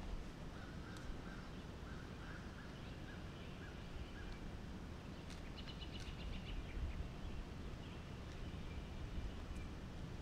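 Birds chirping and calling over a low, steady background rumble, with a quick run of rapid repeated notes about five to six seconds in.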